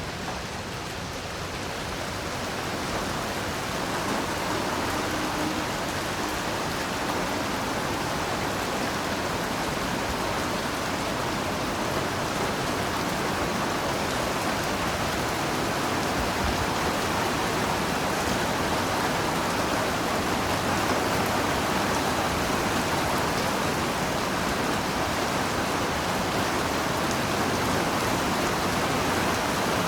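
Heavy rain falling steadily, a dense even hiss of drops that swells a little in the first few seconds and then holds.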